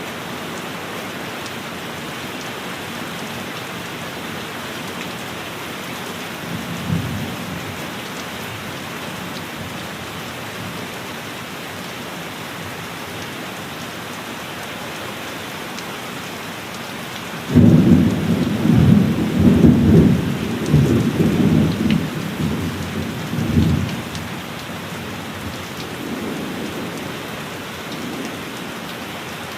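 Steady heavy rain with thunder: a faint rumble about seven seconds in, then a sudden loud peal a little past halfway that rolls and crackles for about six seconds before dying away, with a last weaker rumble near the end.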